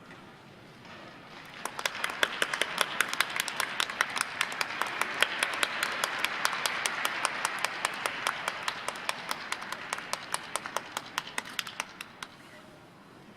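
Audience applause swells about two seconds in and dies away near the end. One pair of hands claps sharply and evenly above it, about four claps a second.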